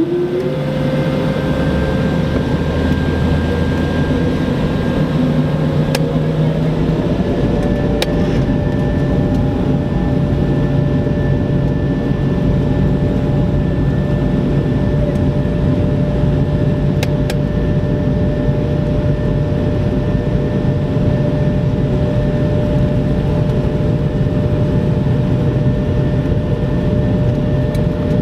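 Airbus A220-300's Pratt & Whitney PW1500G geared turbofan engines spooled up to takeoff thrust, heard from inside the cabin. A steady loud rumble carries whining engine tones that climb slowly in pitch over the first several seconds, the sound of the takeoff roll.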